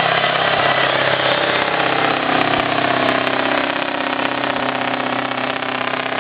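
Scania truck's diesel engine running steadily under load while truck-pulling a sled, its note sinking slightly over the first few seconds.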